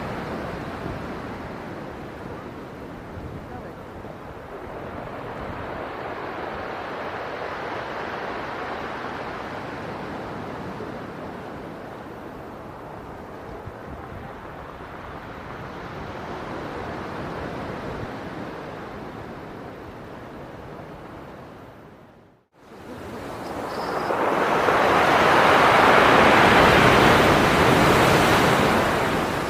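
Storm surf on the sea: waves rushing in and falling back in slow, swelling surges. Near the end a sudden break leads into one much louder wave that crests and then ebbs.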